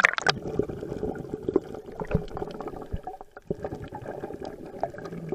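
Sea water gurgling and sloshing close to the microphone, with a crackling, bubbly texture that starts abruptly and holds throughout.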